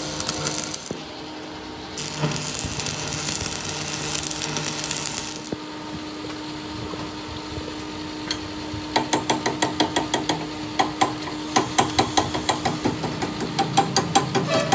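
Metal being hammered in a workshop, with sharp, evenly spaced blows about three a second starting about nine seconds in, over a steady machine hum. Earlier there are a few seconds of hissing noise.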